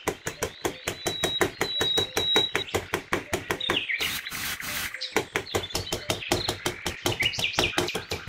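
Birds chirping over a fast, even run of ticks, about six a second, with a scraping hiss of about a second roughly four seconds in, like a small trowel dragged across sand.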